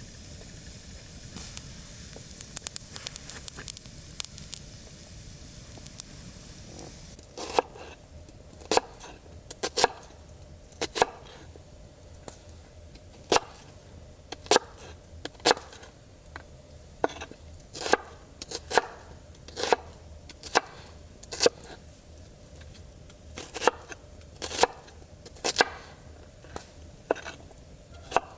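Campfire crackling for the first several seconds, then from about seven seconds in, regular chopping strokes on a hard surface, roughly one or two a second.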